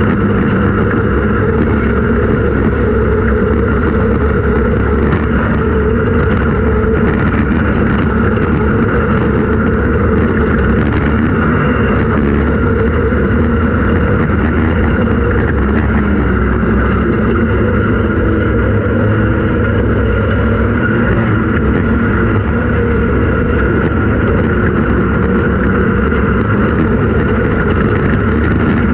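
Off-road race vehicle's engine running steadily at speed, loud and unbroken, with constant noise underneath.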